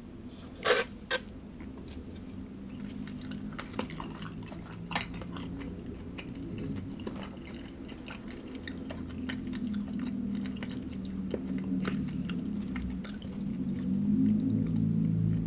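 Close-miked chewing of food: small crunches and wet mouth clicks, with two sharp clicks or bites about a second in. A low steady hum grows louder toward the end.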